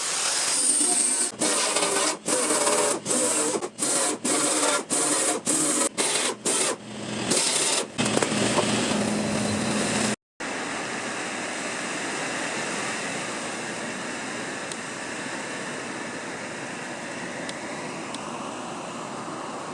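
A power tool working the sheet-metal body panel, run in about a dozen short bursts with brief stops, then after a break running steadily.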